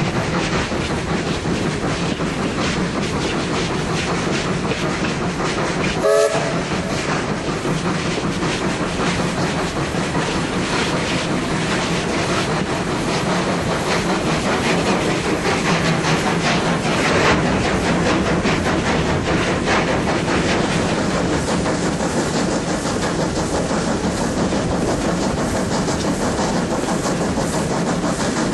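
A steam-hauled passenger train running, heard from a carriage: a steady rumble and clickety-clack of steel wheels over the rail joints, with a short whistle toot from the locomotive about six seconds in.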